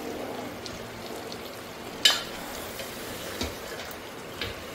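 Mutton keema frying in ghee in an open pressure cooker while a steel ladle stirs it, with a steady sizzle. The ladle scrapes and knocks against the pot, once sharply about two seconds in and lightly twice near the end. This is the late bhuna stage, when the ghee has separated and floats on top.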